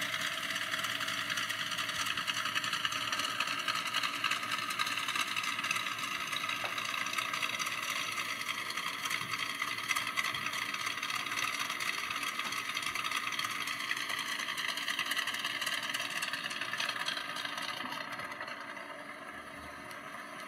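Sunbeam Tiger Mk1A's Ford 260 V8 idling steadily, getting somewhat quieter near the end.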